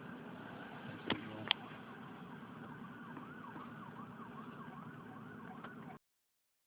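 Faint, distant emergency siren whose pitch rises and falls quickly, about three times a second, through the latter half. Two sharp clicks come about a second in, and the sound cuts off to silence just before the end.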